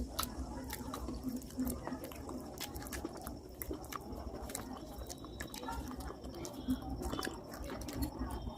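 Close-up chewing and crunching of baked clay pieces: a steady run of many short, sharp crunches and clicks.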